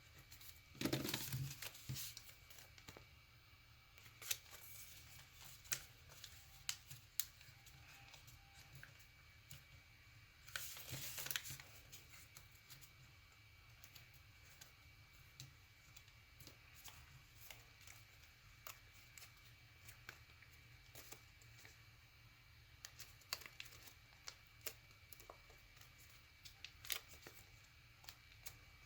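Paper being folded and creased by hand: quiet rustling and small crisp ticks, with two louder crinkling rustles, about a second in and around eleven seconds.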